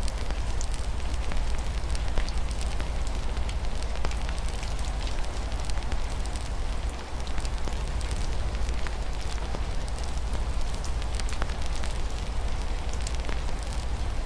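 Wood fire in a fireplace crackling, with many small irregular pops over a steady low rumble, and rain falling softly in the background.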